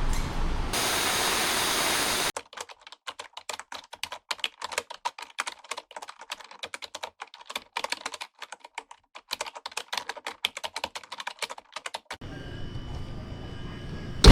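Rapid, irregular computer keyboard typing clicks, after a couple of seconds of steady hiss at the start; a low steady rumble comes in near the end.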